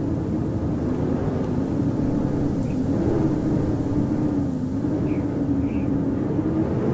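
Howling blizzard wind: a steady rush with a low moaning tone that wavers slightly in pitch.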